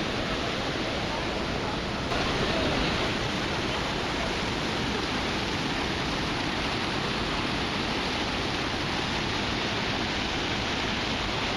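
Waterfall rushing: a steady, even wash of falling water with no breaks, getting slightly louder about two seconds in.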